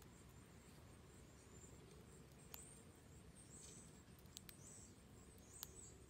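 Near silence: a low steady background rumble with a few faint, short, high bird chirps and a handful of sharp ticks, the clearest about two and a half seconds in and near the end.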